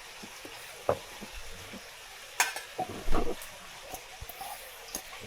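Food sizzling in a frying pan with a steady hiss while it is stirred, a utensil knocking and scraping against the pan a few times, loudest about three seconds in.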